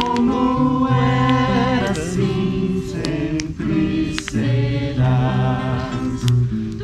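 A congregation singing a hymn together in slow, held notes.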